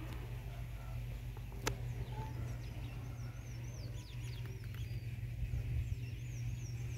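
Small birds chirping, with runs of quick, wavy high notes from about two and a half seconds in and again near the end, over a steady low hum. A single sharp click comes about a second and a half in.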